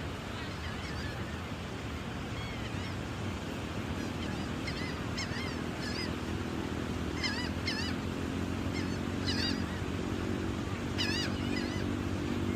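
Gulls calling over and over, short wavering cries that come more often in the second half. A steady low hum joins about a third of the way in.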